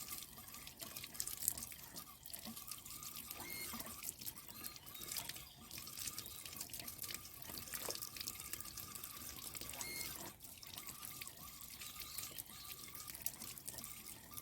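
Water running and dripping, with many small clicks and knocks scattered throughout.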